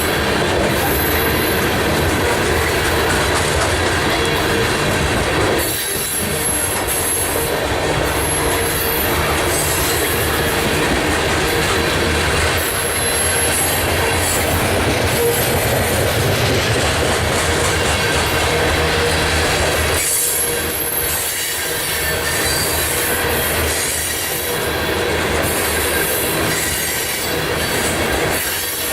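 Freight train of loaded gondola cars rolling past, with steel wheels squealing against the rails and some clickety-clack over rail joints. The sound dips briefly about six seconds in and again around twenty seconds in.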